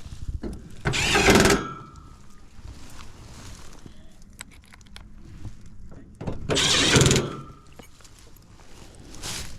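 Cordless power driver running in two short bursts about five and a half seconds apart, driving panel screws back into a heat pump's outdoor unit.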